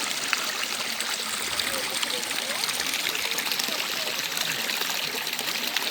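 Mountain stream rushing and splashing over rocks, a steady even rush of water.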